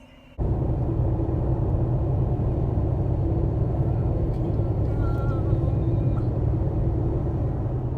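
Steady low rumble of a moving vehicle heard from on board, starting abruptly about half a second in.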